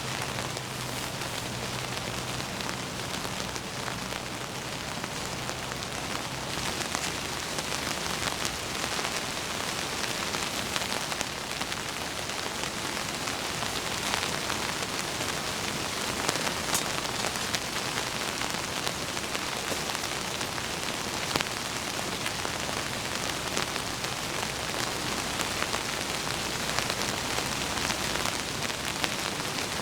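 Heavy rain falling steadily, with many close drop hits ticking through it. A faint low hum underneath stops about seven seconds in.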